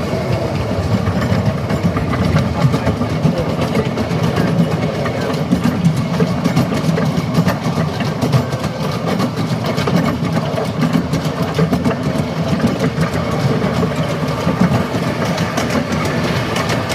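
Miniature steam railway train running along the track: a steady rumble of wheels with many small clicks and knocks.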